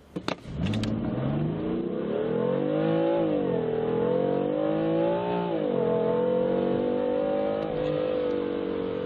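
2015 BMW M3's twin-turbo 3.0-litre straight-six accelerating hard from a launch. A couple of clicks come first, then the engine note climbs with two upshifts, each a quick drop in pitch before it rises again, and it eases off near the end.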